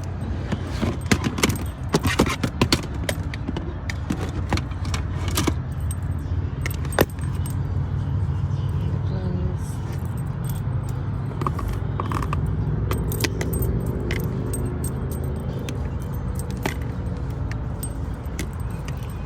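Keys or small metal objects jangling and clicking, busiest in the first several seconds, over a steady low hum.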